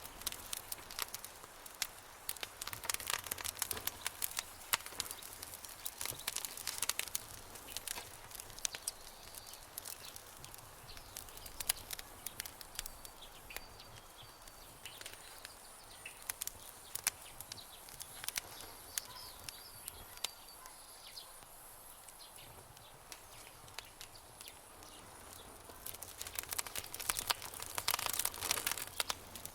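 Campfire crackling: irregular sharp pops and snaps, busiest in the first few seconds and again near the end, sparser in between.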